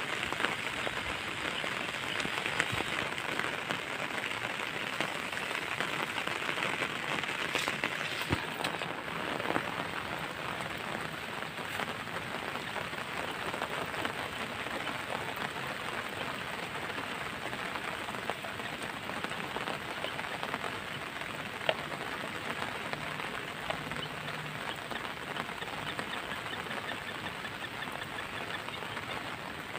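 Steady patter of light drizzle, with a few brief clicks.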